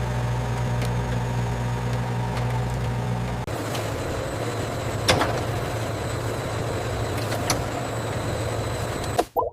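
Steady hum of factory machinery with a low drone. The hum changes character about three and a half seconds in, has a couple of sharp clicks, and cuts off abruptly just before the end.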